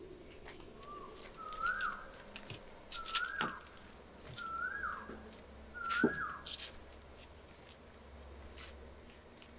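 A bird whistling the same short note five times, each rising then dropping, about every one and a half seconds. Footsteps thud and tap on the wooden boards of a footbridge.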